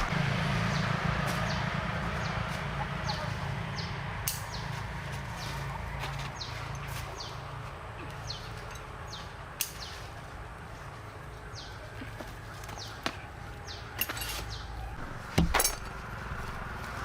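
A low engine hum fades away over the first several seconds while a bird repeats short, falling chirps. A few sharp knocks come near the end.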